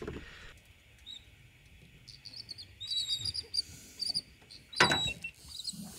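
Birds chirping in short repeated bursts of high calls, with one sharp knock about five seconds in.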